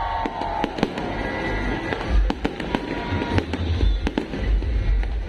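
Fireworks going off: a rapid, irregular series of sharp bangs and crackles over deep booms.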